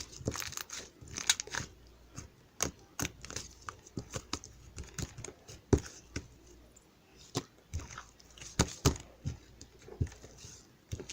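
Irregular crinkling and crunching clicks, uneven in loudness, with short gaps between them.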